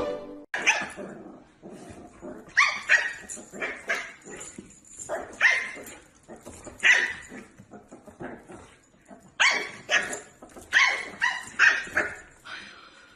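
A dog barking repeatedly: about a dozen short, sharp barks, some coming in quick runs of two or three.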